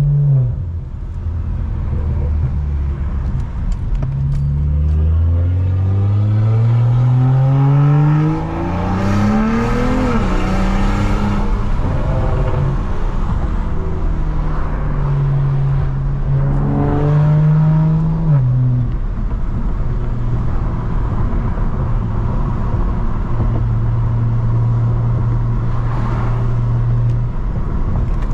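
BMW 335i E92's straight-piped N55 turbocharged inline-six under acceleration: the exhaust note climbs in pitch for several seconds and drops sharply at an upshift about ten seconds in. It rises and drops once more a few seconds later, then settles into a steady cruise.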